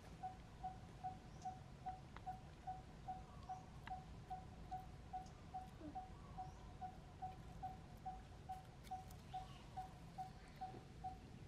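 A bird calling one short, clear note over and over at an even pace, about two and a half notes a second, over a low wind rumble.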